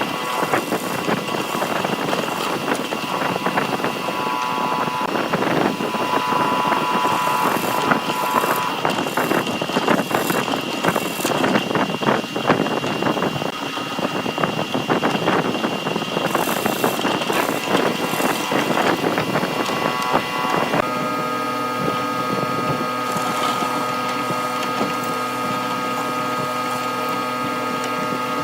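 Power tool working wood: a rough, crackling cutting or grinding noise, which about twenty seconds in gives way to a steady motor hum.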